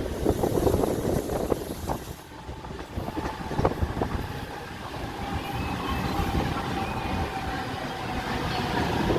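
Mumbai suburban electric local train running, heard from inside a coach: a low rumble of wheels on rails with scattered knocks, easing for a moment about two seconds in, and a steady whine through the second half.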